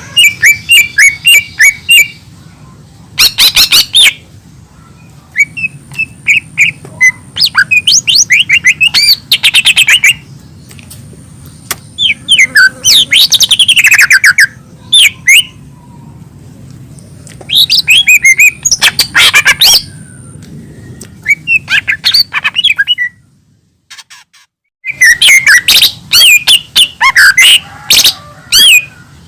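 Lesser green leafbird (cucak ijo mini) singing: loud phrases of rapid chirps and whistled, sliding notes, broken by short pauses, over a faint low hum. The song drops out briefly for about a second before the last phrases.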